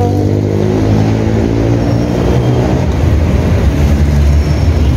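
Street traffic heard from a moving bicycle: a passenger jeepney's engine runs close alongside, an even-pitched hum for the first couple of seconds. Under it all is a steady low rumble of road and wind noise on the microphone.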